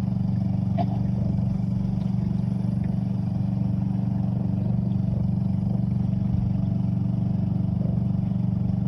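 Small outboard motor pushing a canoe upriver, running at a steady speed.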